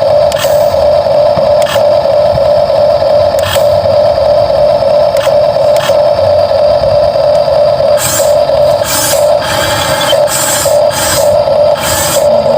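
Huina 1550 RC excavator's small electric motors and gearboxes whining steadily, with occasional clicks. From about eight seconds in, short hissy scraping bursts join the whine.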